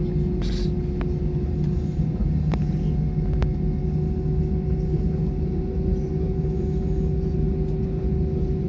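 Airliner cabin noise on the ground before takeoff: a steady low rumble from the engines with a steady whine over it. A short hiss comes about half a second in, and a few faint clicks follow in the first few seconds.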